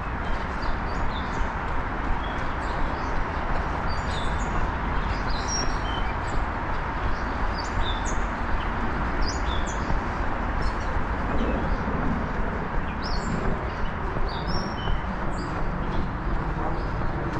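Small birds chirping in short, high calls scattered throughout, over a steady rushing background noise and the runner's regular footfalls.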